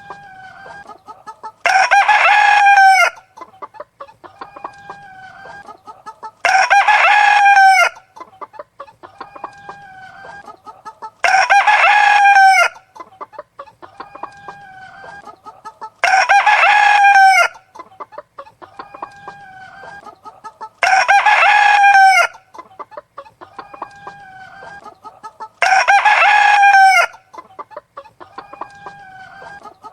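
Rooster crowing six times, each crow about a second and a half long, repeating at even intervals of roughly five seconds with the same shape every time. Softer hen clucking fills the gaps between crows.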